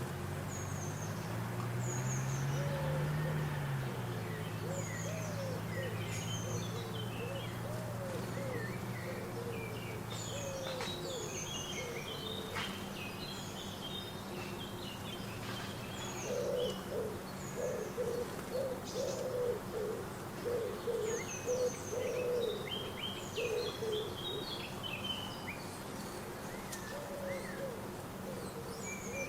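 Several small birds chirping and singing in short high notes throughout. From about halfway, a lower call comes in quick repeated arched notes. A low hum rises and falls in pitch over the first few seconds.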